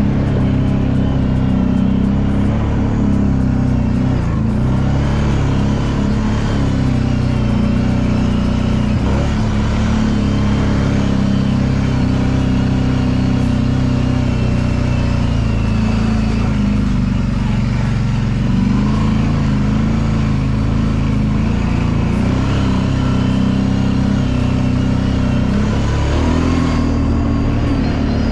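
Kawasaki Brute Force 750 ATV's V-twin engine running continuously on a trail ride, its pitch dipping and climbing again a few times as the throttle is eased off and reopened.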